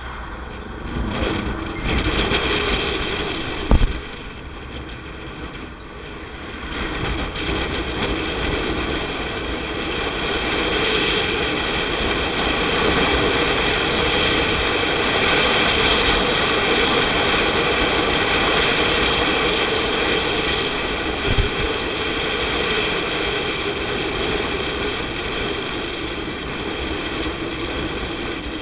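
Motorcycle under way on the road: engine and wind noise as it rides, growing louder about seven seconds in, with a sharp knock about four seconds in.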